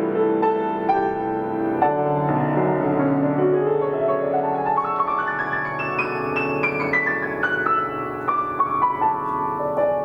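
Solo piano playing chords, with a run of single notes that climbs through the middle and then steps back down toward the end.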